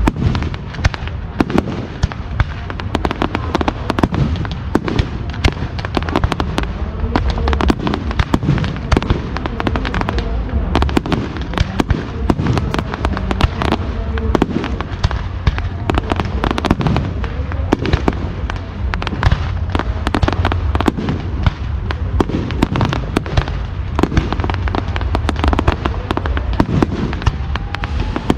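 Fireworks display: a dense, continuous barrage of bangs and crackle from aerial shells bursting and low-level multi-shot effects firing, with a whistle rising near the end.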